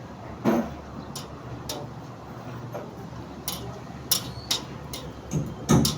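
Irregular sharp taps and knocks from construction work, sparse at first, then louder hammer-like strikes coming closer together near the end.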